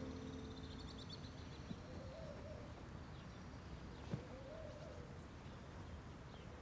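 Faint birds chirping in the background, with a few lower wavering calls among them, and a single soft knock about four seconds in.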